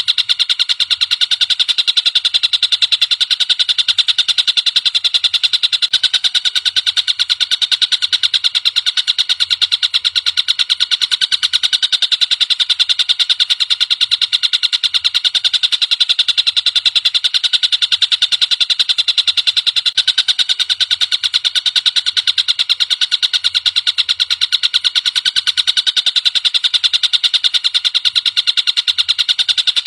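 Tengkek buto, a kingfisher, giving a continuous, rapid, rattling trill of evenly repeated high notes, played as a masteran tutor recording for songbirds.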